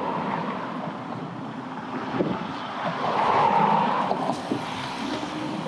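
Wind on the microphone and road and traffic noise while riding an e-bike along a street, swelling louder about three seconds in.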